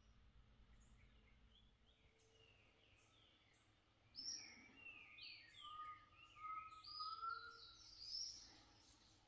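Birds calling faintly in a quiet early morning. About four seconds in, a burst of quick chirps and short falling whistles starts and lasts a few seconds, over a low, even background.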